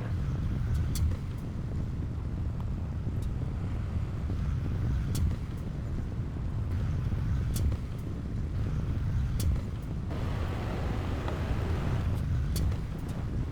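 Heavy diesel earthmoving machinery running with a steady low rumble, with a few irregular sharp clicks over it.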